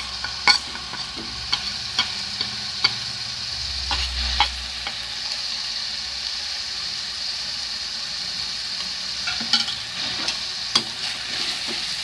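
Spiced onion paste frying steadily in hot mustard oil in a kadhai, a continuous sizzle, with a few sharp clinks of metal utensils against the pan near the start and again near the end.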